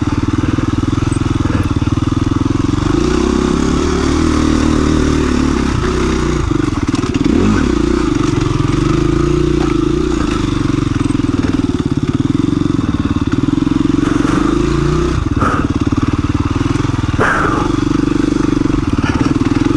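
2017 KTM 350 EXC-F's single-cylinder four-stroke engine running at low, fairly steady revs at slow trail speed, its pitch wavering a little. Two short knocks come in the last few seconds.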